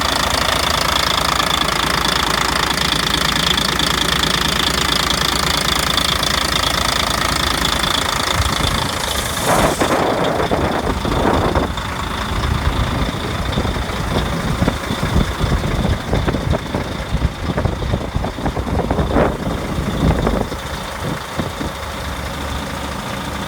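Volvo VNL truck's diesel engine running, with a steady high whine over it for the first several seconds. A few brief noisy disturbances come about ten seconds in, after which the engine sound is a lower, more uneven rumble.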